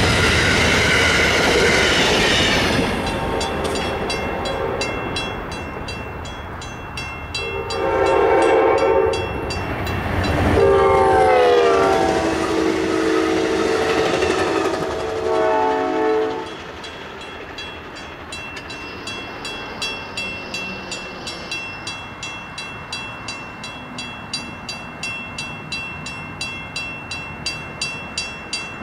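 A passenger train's stainless-steel cars rolling past over a grade crossing, fading as the train leaves, with the locomotive's air horn sounding in long blasts between about 7 and 16 seconds in. As the train goes, the crossing warning bell keeps ringing, about two strikes a second.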